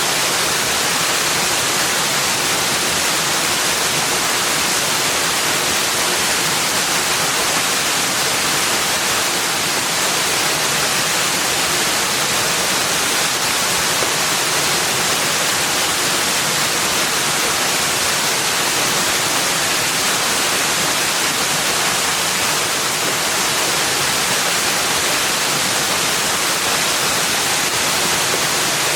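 Rushing water: a loud, steady hiss that does not change.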